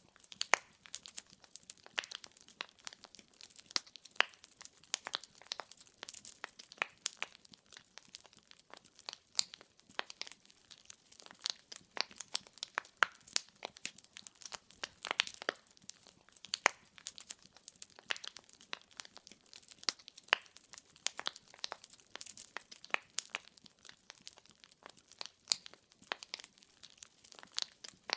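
Wood fire in a fireplace crackling: logs pop and snap at irregular intervals, several times a second, over a faint hiss of flame.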